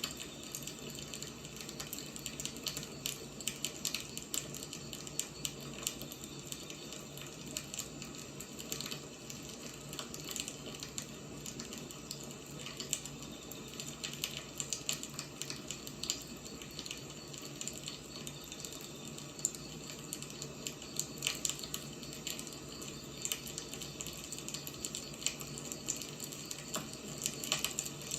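Wood fire burning: a steady soft hiss with frequent irregular crackles and pops from the firewood.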